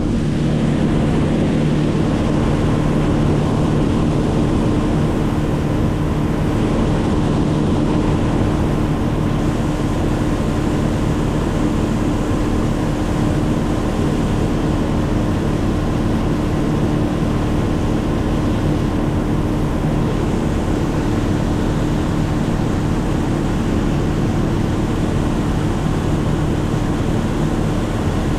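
A motor running steadily at one constant speed, with a rushing noise over it.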